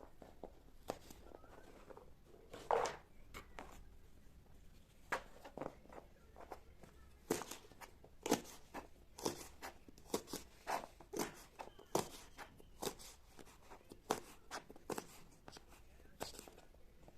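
A series of short, irregular knocks and clicks of things being handled and set down in a kitchen.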